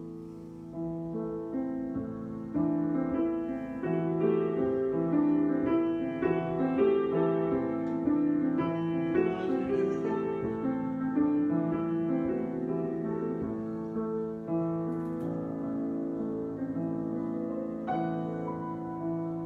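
Solo piano improvisation: overlapping chords and melody notes sustained and ringing into one another.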